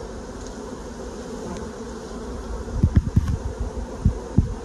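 A large swarm of honey bees buzzing, a steady dense hum. From about three seconds in, several short low thumps stand out above it.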